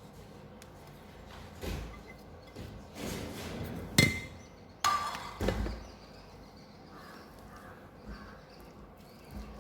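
Kitchen utensils knocking and clinking against a cooking vessel as shredded chicken is added to a masala and mixed: a handful of separate knocks, the loudest a short ringing clink about four seconds in.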